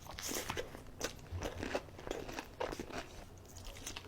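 Close-miked biting and chewing of a sauce-dunked fried chicken finger: a series of irregular crunches.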